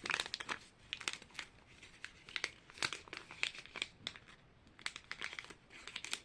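Small blind bag crinkling as it is handled and torn open by hand: a steady run of irregular, sharp crinkles.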